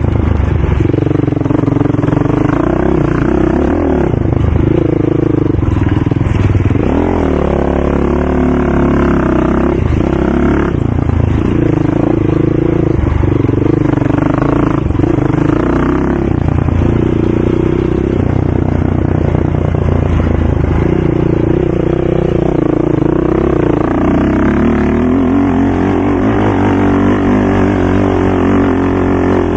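ATV engine running hard, its pitch rising and falling again and again as the throttle is worked.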